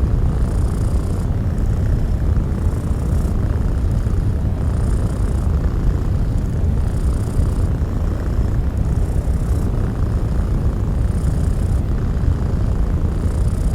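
Steady pink noise, heaviest in the low end, blended with a cat's purring. A faint airy hiss rises and falls in a cycle of about two seconds.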